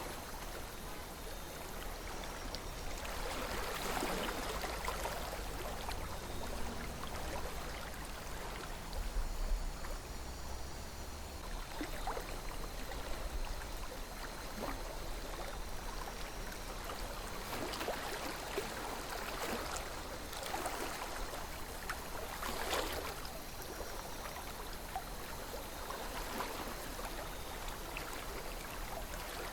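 River water flowing gently over stones, a steady babble with small gurgles and splashes that flare up now and then.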